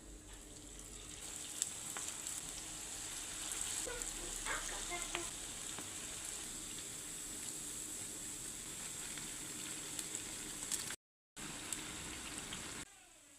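Food frying in hot oil: a steady sizzle with scattered small crackles, breaking off briefly near the end.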